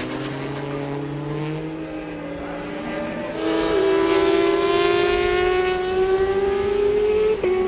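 Racing motorcycle engine at high revs, its pitch climbing slowly as it accelerates. It gets much louder about three and a half seconds in, with a brief break in the note near the end.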